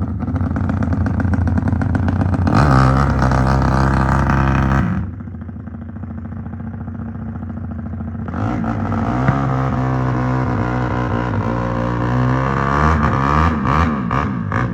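Motorcycle engine revved hard twice. The first short burst is held at high revs and cuts off sharply; after a lower-running stretch, a longer second burst of revving follows, its pitch wavering toward the end.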